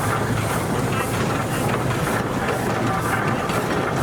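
Steam traction engine running past, its exhaust chuffing about twice a second over a steady low rumble.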